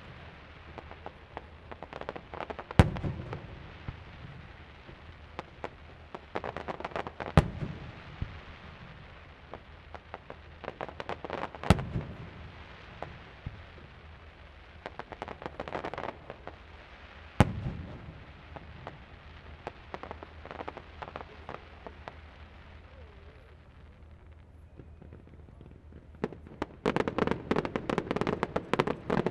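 Aerial fireworks display: single loud shell bursts every four to six seconds, with crackling between them. Near the end, a dense, rapid barrage of bangs and crackles sets in.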